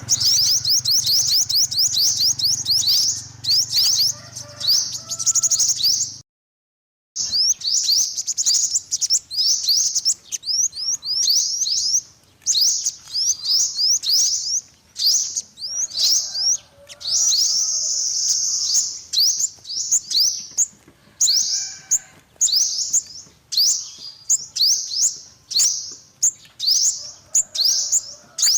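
Yellow-bellied sunbird singing: quick runs of high, thin chirps and trills, broken by a brief silence about six seconds in.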